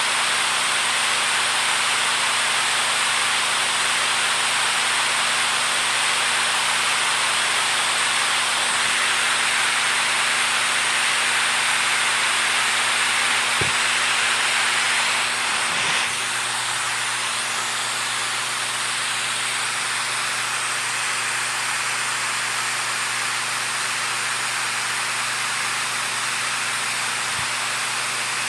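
Steady rushing of running water, an even hiss that drops slightly in level a little past halfway.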